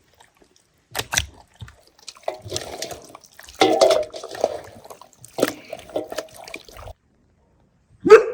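Water splashing and sloshing in irregular bursts, with a few short knocks; the loudest is a sharp knock near the end.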